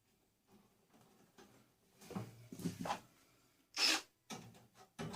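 Handling noises of a microwave's plastic and sheet-metal casing being fitted back together: a few light clicks and rustles after a quiet start, and one short, louder noise a little before the end.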